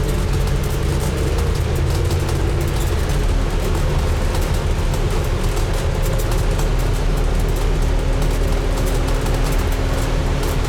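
Scania N250UD double-decker bus driving along, heard from on board: steady engine and road rumble with a steady whine that drops slightly in pitch about three seconds in.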